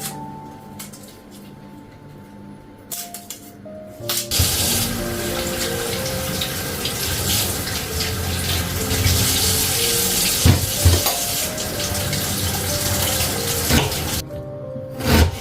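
Kitchen tap turned on about four seconds in and left running into the sink, with water splashing steadily until it is shut off about four seconds before the end; a few soft knocks sound under the running water.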